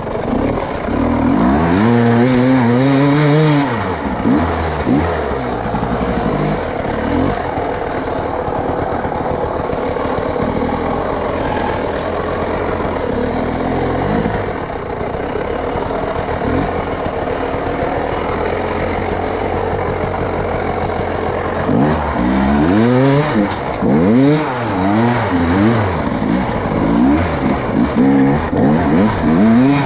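Off-road vehicle engine working hard: it revs up and down for the first few seconds, runs at a steadier speed through the middle, then revs in quick repeated surges over the last eight seconds or so.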